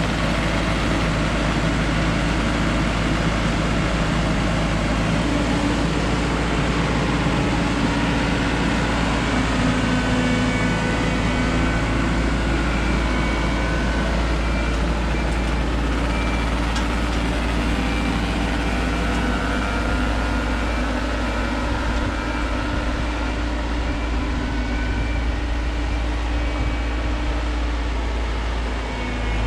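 Mazzotti self-propelled high-clearance crop sprayer's diesel engine running steadily under work, with slight rises and falls in pitch.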